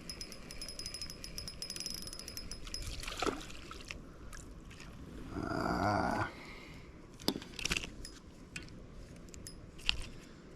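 Fishing reel being cranked, with a fast fine ticking for about three seconds, then a short splash of water around the middle and a few sharp knocks.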